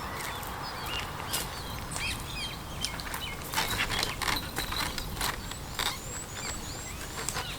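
Small birds chirping: many short, high calls scattered throughout, over a steady low background rumble.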